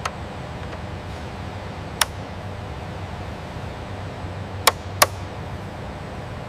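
A steady low rumble with four sharp clicks: one at the start, one about two seconds in, and two in quick succession near the five-second mark.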